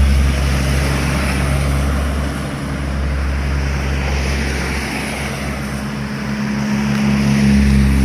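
Heavy diesel truck engine running under load on an uphill grade, a steady low drone that eases off a little partway through and builds again near the end.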